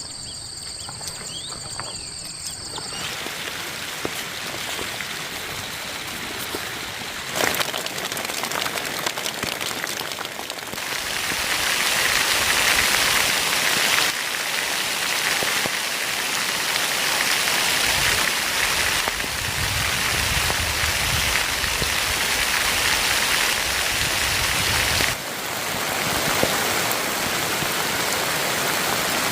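Steady heavy rain falling, a dense hiss of water that steps up abruptly in loudness a few times, strongest from about ten seconds in. For the first three seconds, before the rain hiss comes in, there is a high steady two-tone whine.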